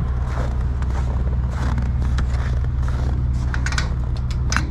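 Clicks, scrapes and light metallic knocks from a truck door being opened and things in the cab being handled, with a cluster of sharp clicks near the end, over a steady low hum.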